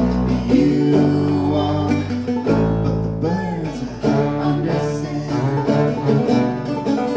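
Acoustic string band playing an instrumental passage: upright bass holding low notes under quick plucked-string picking.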